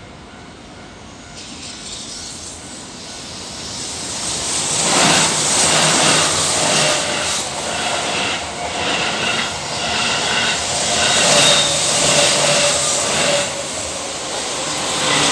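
Electric commuter train, a red-and-yellow Keihan express, passing over a level crossing: its rumble builds from about two seconds in to loud by about five seconds, with rapid wheel clatter over the rail joints. The crossing's warning bell rings steadily throughout. The sound eases briefly near the end, then rises again as the next train comes through.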